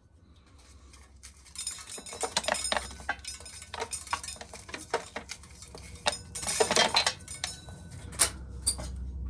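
Dry shelled corn kernels and cobs rattling and clinking against metal during hand shelling, a dense run of sharp rattles that comes and goes in bursts.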